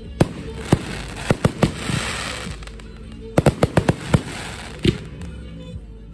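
Fireworks display: a dozen or so sharp aerial shell bursts at irregular intervals, with a rapid cluster of bangs a little past halfway and a hissing crackle around two seconds in. Music plays underneath.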